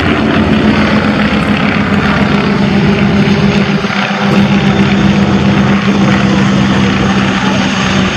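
Avro Anson Mk.I's twin Armstrong Siddeley Cheetah radial engines running steadily in flight, a loud, even propeller drone.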